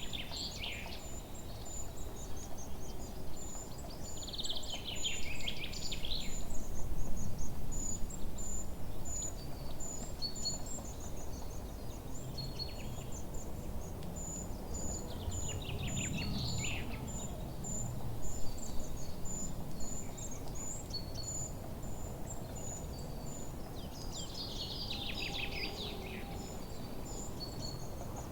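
Forest birds singing: four short bursts of rapid, falling song, over a steady run of very high, short, evenly repeated chirps and a low rumbling background.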